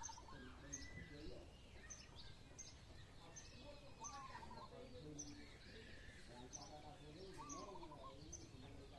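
Faint outdoor ambience with small birds chirping, short high chirps repeating every half second or so.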